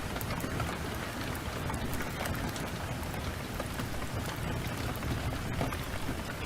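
Heavy rain falling in a steady downpour, with scattered sharp clicks through it.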